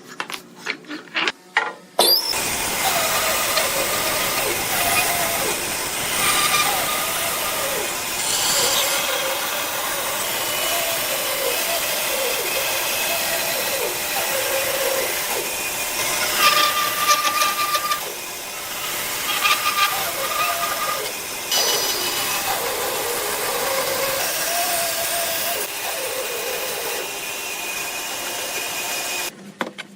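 A woodworking power tool running on wood. It starts about two seconds in and stops just before the end, with a noisy hiss and a pitch that wavers as it works.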